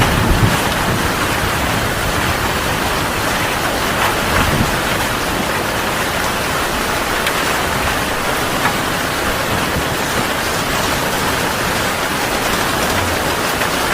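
Heavy rain pouring steadily, with the tail of a low thunder rumble dying away at the very start.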